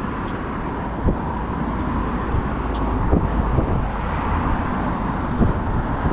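Steady noise of road traffic passing, with a few brief knocks.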